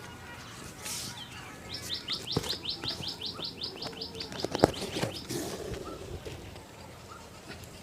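A bird calling a fast run of high, falling chirps, about five a second for some three and a half seconds, with a few sharp taps among them, the loudest a little past the middle.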